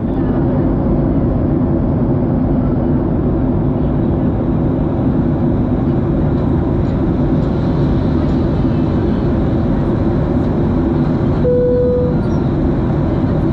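Steady engine and airflow noise inside the cabin of a Boeing 737 airliner in flight. A brief single tone sounds near the end.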